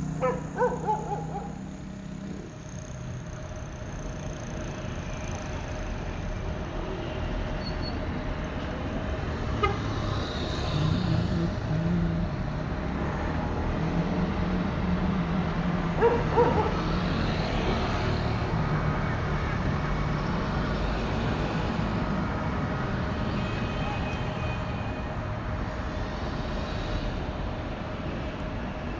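A motor vehicle's engine running with road noise, the rumble swelling a little midway, with two short pitched blips, one about half a second in and one about sixteen seconds in.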